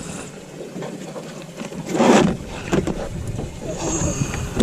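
Gear being handled in a small fishing boat: light rubbing and scraping, with one louder knock and clatter about two seconds in.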